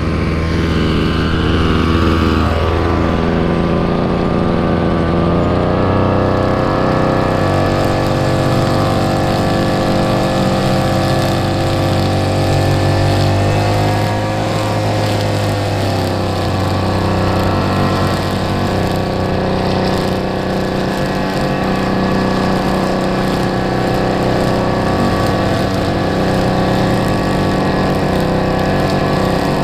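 An engine running steadily, its pitch shifting a little a few times.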